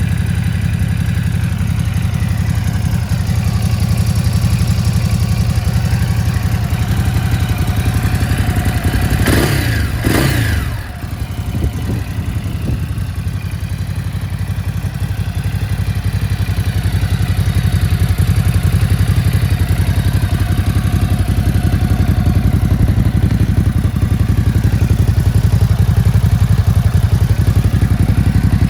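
Ducati Hypermotard 950's 937 cc Testastretta L-twin engine idling steadily, with two quick throttle blips about nine to ten seconds in that rise and fall in pitch before it settles back to idle.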